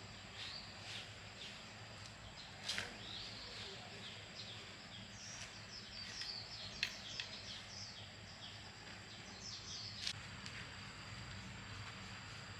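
Small birds chirping in quick, short repeated calls, busiest in the middle, with three sharp clicks or taps scattered through and a faint steady hum underneath.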